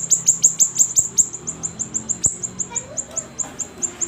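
Siri-siri songbird calling in a fast, steady string of sharp high notes, each sliding down in pitch, about six or seven a second.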